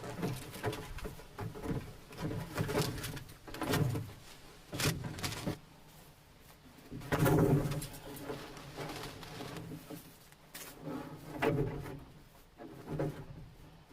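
Irregular series of wooden clunks and knocks, about eight over fourteen seconds and a second or two apart, as pieces of slab wood are tossed into an IBC tote. The loudest comes about seven seconds in.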